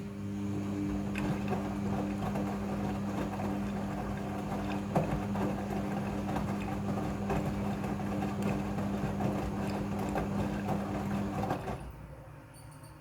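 Midea front-loading washing machine running mid-cycle: a steady motor hum over the splash and rustle of water and laundry, with scattered clicks. The hum cuts in at once and stops abruptly after about twelve seconds.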